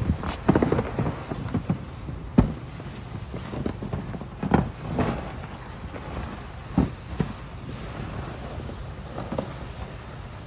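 Low wind rumble on the microphone, broken by irregular thumps and scrapes, a dozen or so, the loudest about two and a half, four and a half and seven seconds in.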